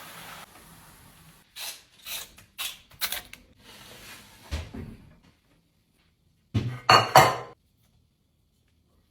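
Dishes and cutlery being handled and set down: a few light clinks, a dull knock, then a louder short clatter about seven seconds in.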